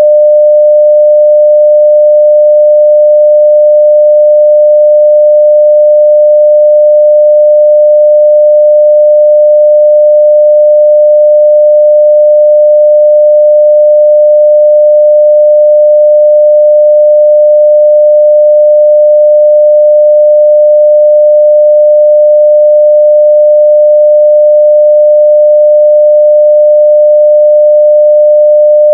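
A steady 600 Hz sine-wave test tone at full level (0 dB), a single pure pitch held without change.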